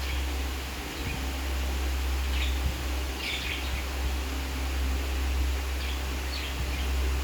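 Pet budgies giving short, scattered chirps, a few closer together about three seconds in, over a steady low hum.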